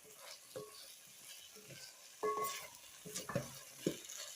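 Food frying in a cooking pot with a faint steady sizzle, stirred with a spoon that clinks and scrapes against the pot a few times.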